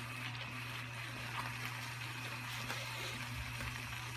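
Vegetable and fish stew simmering in broth in a nonstick frying pan, a faint steady bubbling, with a wooden spatula moving through it. A steady low hum runs underneath.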